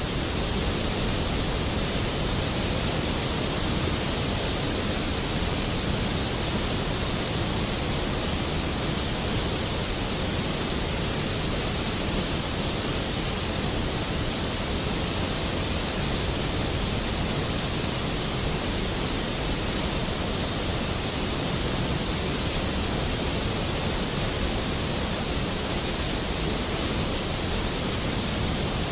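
Floodwater rushing through a reservoir spillway: a steady, dense rush of water that never lets up, the lake swollen by heavy rain.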